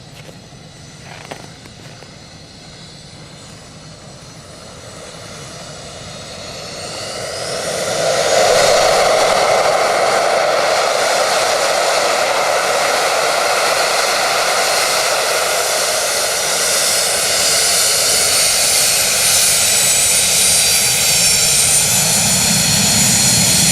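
Jet engines of a twin-engine Yak-40 building up over a few seconds, then running loud and steady with a high whine.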